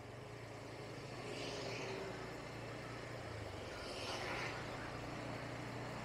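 Bajaj Pulsar N160's single-cylinder engine running steadily while riding, a low even hum under road and wind noise, with brief swells of hiss about one and a half and four seconds in.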